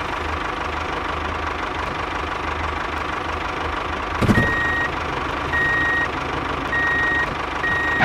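Tractor engine sound running steadily. About four seconds in it surges briefly, and a reversing alarm starts: four high beeps about a second apart as the tractor backs up.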